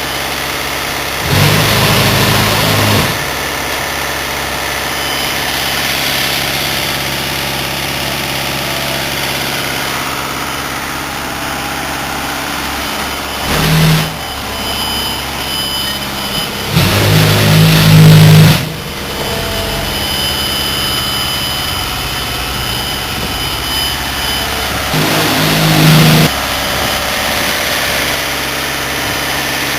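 Cement tanker truck's diesel engine running steadily, with four louder swells of engine sound lasting one to two seconds each, near the start, around the middle and near the end.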